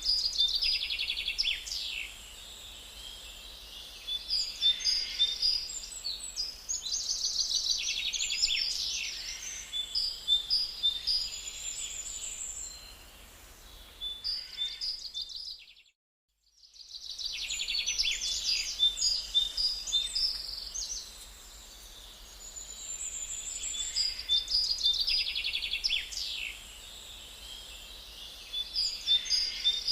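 Woodland songbirds singing, repeated chirping and trilling phrases. The sound fades out to silence for about a second in the middle, then fades back in.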